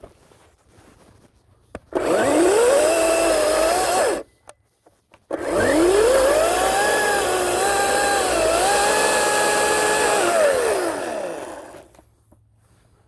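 Ryobi 40-volt battery chainsaw, 18-inch bar, run twice: a short burst of about two seconds, then a longer run of about six seconds. Each time the whine rises quickly as the chain spins up, the pitch dips and wavers while it cuts through wood, and it sinks as the saw winds down.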